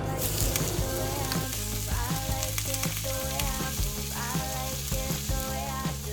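Food frying on a hot cooking surface, a steady sizzling hiss, over background music.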